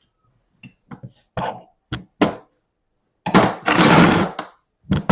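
Short clicks and knocks of AD-9 air-dryer parts being handled, then a louder rushing, scraping noise of about a second starting a little past three seconds in.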